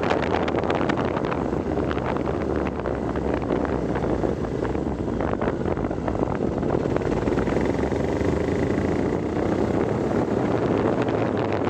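A vehicle engine running steadily on the move, with wind buffeting the microphone.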